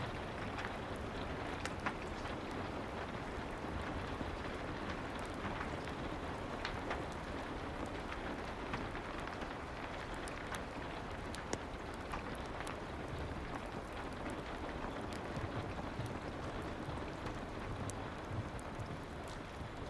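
Soft, steady rain, with scattered sharp ticks running through it.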